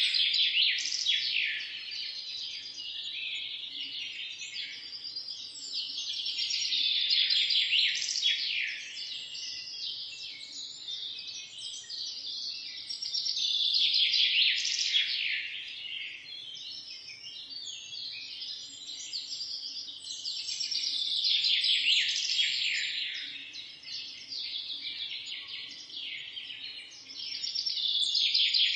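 Forest birds chirping in a dense chorus of quick, high, falling calls that swells loud and fades back about every seven seconds.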